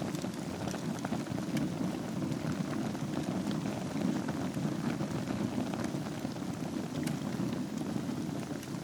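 Wood fire burning in a fireplace: a steady low rushing of the flames with scattered small crackles and pops.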